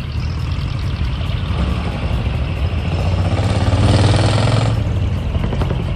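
Truck engine running with a deep, steady rumble as it drives off, swelling into a louder rev with rising pitch about three and a half seconds in, then easing back.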